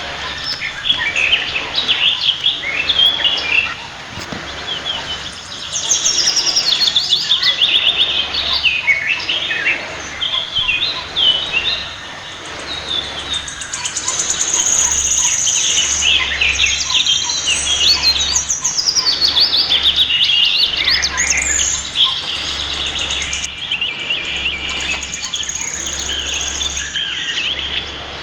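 Pied fantail calling: dense, rapid high chirps and short whistled sweeps, with brief lulls about four and twelve seconds in.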